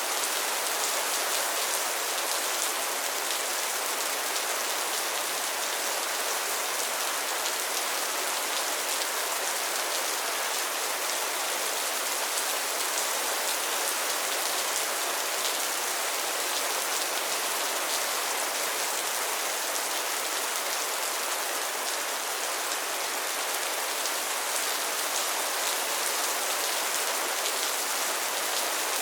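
Steady rain falling on pond water and lily pads: a dense, even patter of drops that keeps up without a break.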